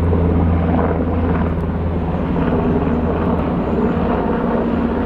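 Jet airliner passing high overhead, a steady rumble with a low hum underneath.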